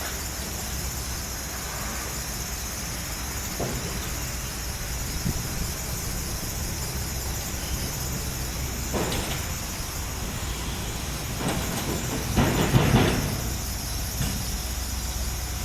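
Diesel engine of a heavy construction machine running steadily as it drives up onto a truck, with squealing, scraping bursts about nine seconds in and a louder one a few seconds later.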